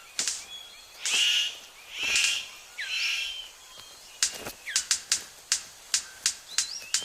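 Male superb bird of paradise's courtship display: three harsh rasping bursts about a second apart, then a quick run of sharp clicks, about three a second. Other forest birds give thin whistled calls in the background.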